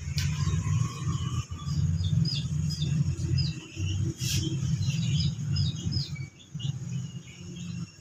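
Small birds chirping repeatedly in short calls over a louder, uneven low rumble.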